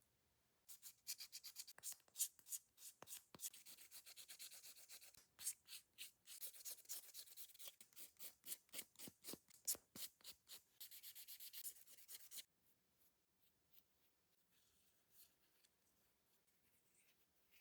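A hand nail file rasping in quick back-and-forth strokes against a nail or extension tip, shaping it. The filing is faint and stops about twelve seconds in.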